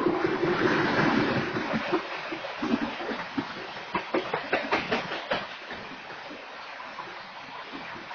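Freight train hopper cars rolling past, heard through a security camera's microphone: a steady rumble and hiss, loudest in the first couple of seconds, with a quick run of wheel clacks about four to five seconds in.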